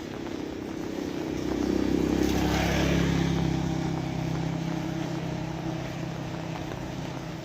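A motor vehicle passes, its engine growing louder to a peak about two to three seconds in and then fading away, over the steady hiss of falling rain.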